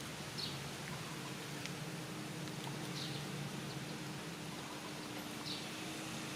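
Outdoor ambience with a steady hiss and a faint steady hum, broken by three short high-pitched animal chirps roughly two and a half seconds apart.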